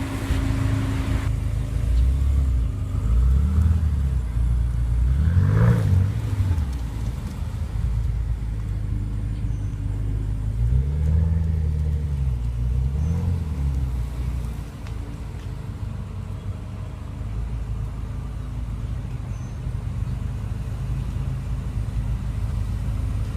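BMW M5 F10's twin-turbo 4.4-litre V8 idling, blipped about four times so the revs rise and fall briefly. It settles back to a steady idle for the second half.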